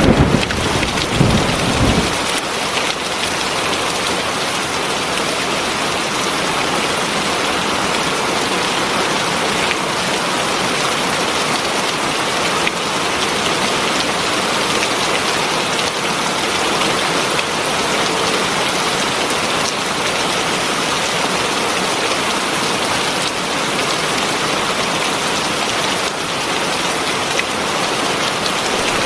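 Heavy rain falling steadily, a dense even hiss of drops on surfaces. A low rumble of thunder fades out in the first two seconds.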